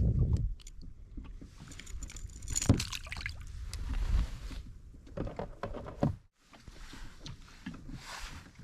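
Water sloshing and splashing against a kayak, with scattered clicks and knocks from handling on the boat, including one sharp knock a little under three seconds in.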